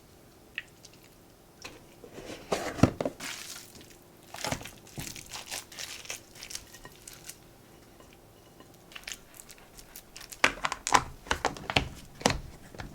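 Crinkling and rustling in irregular bursts, with a few small clicks, in a quiet small room.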